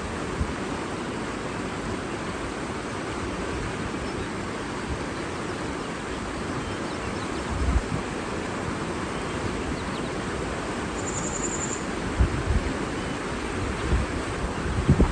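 Steady rushing of water, with a few gusts of wind buffeting the microphone in the second half and one brief high-pitched bird call a little past the middle.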